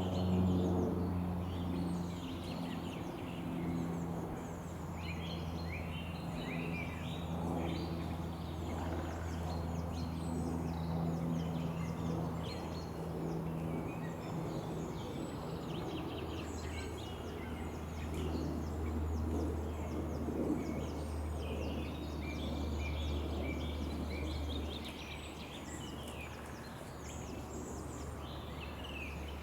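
Many small birds chirping and singing, over a steady low hum.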